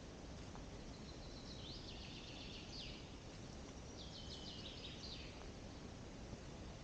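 A songbird singing two short phrases of rapid high notes, each lasting about two seconds, over a steady low background hiss.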